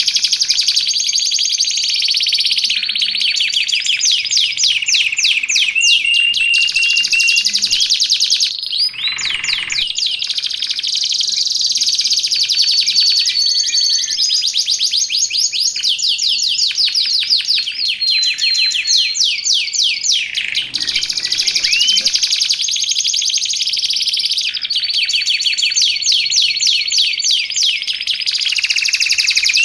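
Domestic canary singing a continuous song of fast rolling trills, rapid repeated notes broken by a few held high whistles, with two brief breaks.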